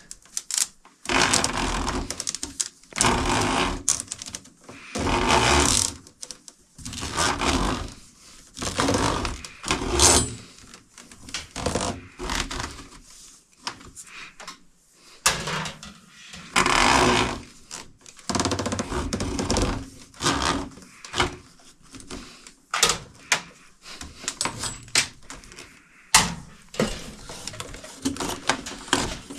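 Electrical cable being handled and pushed into place: irregular scraping and rustling in bursts of about a second with short pauses, and a few sharp clicks or knocks in the second half.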